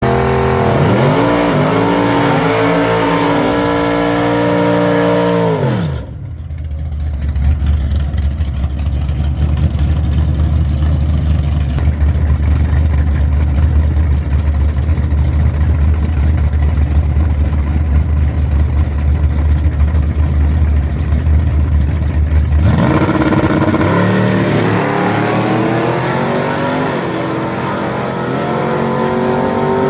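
Chevy Blazer race car's engine accelerating hard, its pitch climbing through gear changes. From about six seconds in comes a long, steady, loud rumbling noise. Rising revs return near the end.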